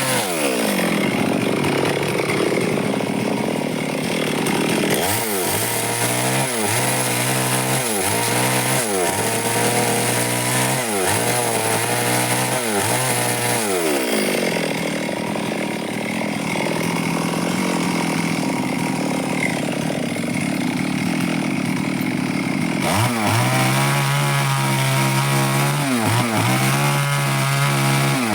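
Stihl two-stroke chainsaw at high revs, twice held down under load in a long cut through wood. Between the cuts the engine pitch dips and climbs back again and again as the throttle is eased and reopened.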